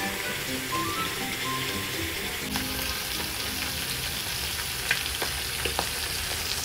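Prawns frying in shallow oil in a metal wok: a steady sizzle with occasional sharp pops.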